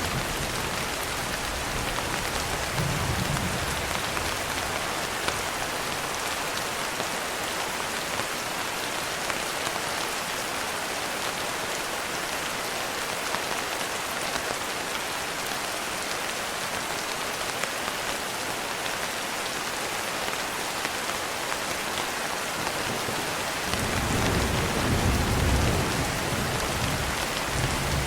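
Steady heavy rain falling, with low rumbles of thunder about three seconds in and again over the last few seconds.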